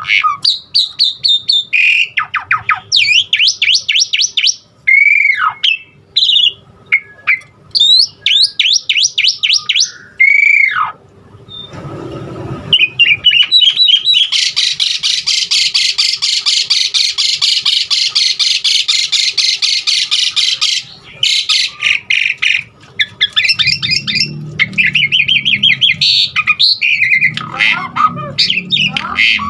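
Javan pied starling (jalak suren) singing a varied song of loud whistles, falling slurs and rapid repeated chirps. About halfway through comes a long, harsh, chattering stretch, then more quick trilled phrases.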